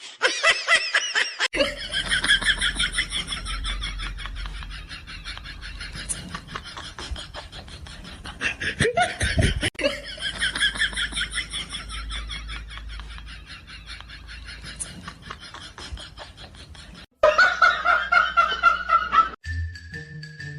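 Long, continuous laughter in rapid pulses, with a brief break about nine seconds in; a xylophone-like jingle starts near the end.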